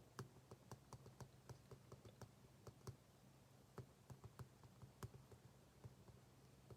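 Soft, irregular clicks and taps at a study desk, about three or four a second, over a faint steady low hum.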